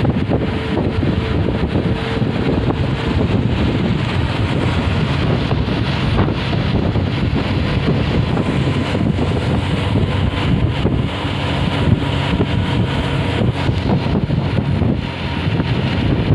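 Moving bus: steady engine and road noise, with wind buffeting the microphone.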